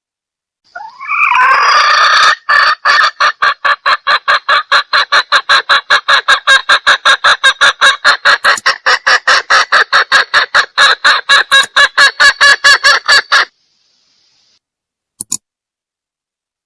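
Junglefowl hen clucking in a fast, even run of about four clucks a second, after a brief rising call at the start; the run stops suddenly, and a short click follows a couple of seconds later.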